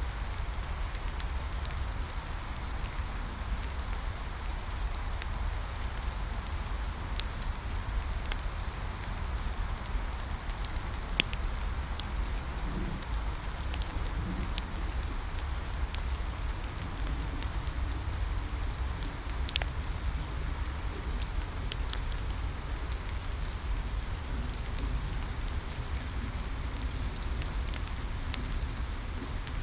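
Steady rain falling, with the scattered sharp pops and crackles of a bonfire at uneven intervals.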